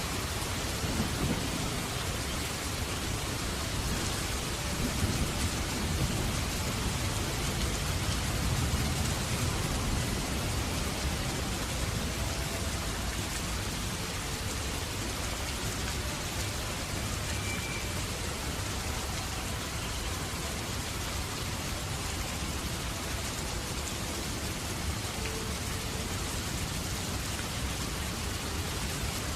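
Heavy rain falling steadily in a thunderstorm. Low thunder rumbles through the first third, then dies away.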